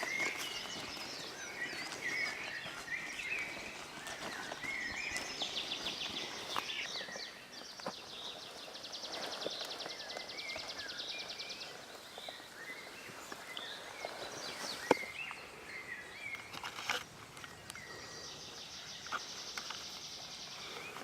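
Outdoor ambience of birds chirping, with three long buzzing trills. A single sharp click comes about fifteen seconds in.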